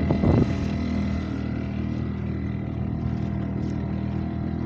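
Motorboat engine running steadily at cruising speed, a constant droning hum with water and wind hiss, with a short louder burst of noise at the very start.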